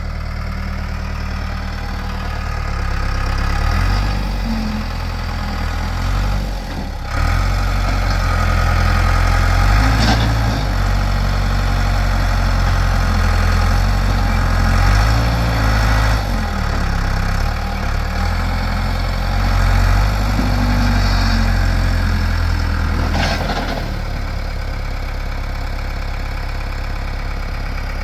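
Backhoe engine working hard under load as the machine strains to drag a heavy tree, its level rising and falling as the throttle and load change. About 23 seconds in it drops back to a steady idle.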